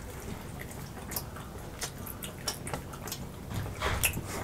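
Close-miked eating sounds of people chewing and biting into fried chicken wings: a scatter of short, soft wet clicks, a little louder about four seconds in.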